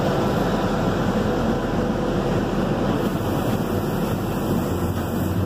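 CSX double-stack intermodal train rolling past close by: a steady rumble of steel wheels on rail as the container-laden well cars go by.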